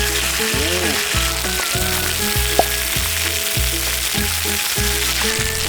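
Beef short ribs sizzling in a frying pan, just turned, under background music with a steady beat. A short click sounds about halfway through.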